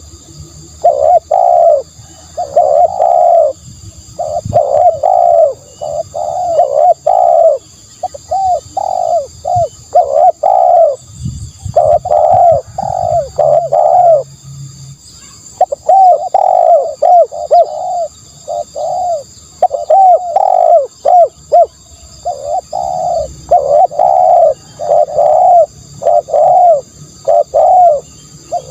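Spotted dove cooing over and over, a quick run of short low coos in phrases broken by brief pauses.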